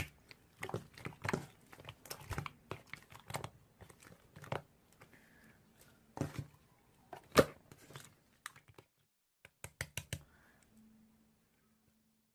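Irregular sharp clicks and short crinkly rustles, like something being handled or tapped. They break off about nine seconds in, a few more come a second later, and a faint low hum follows near the end.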